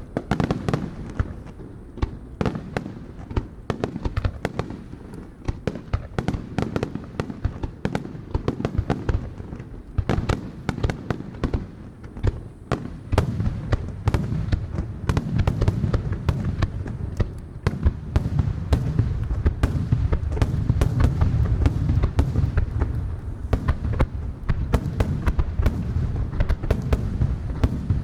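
Aerial fireworks shells bursting in rapid succession, dozens of sharp bangs over a continuous low rumble. The rumble grows fuller and louder from about halfway through as the barrage thickens.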